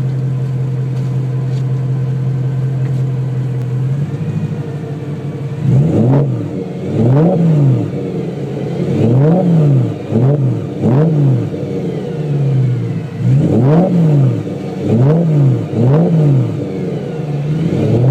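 2013 BMW M3 E92's V8 through a Meisterschaft GT2 exhaust, idling steadily and then, about six seconds in, blipped repeatedly. Each quick rev rises and falls in about a second.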